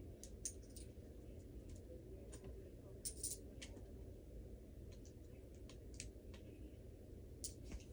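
Faint, scattered light clicks and taps over a low steady room hum.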